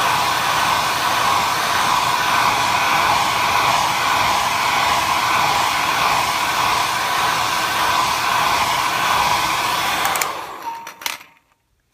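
Hand-held hair dryer blowing steadily at full power. About ten seconds in it is switched off and its motor runs down, with a couple of sharp clicks.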